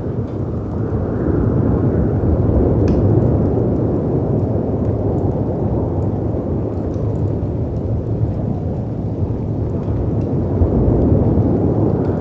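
Layered storm ambience: a deep, rumbling wash of wind and surf that swells and eases twice, with a few faint fireplace crackles and pops on top.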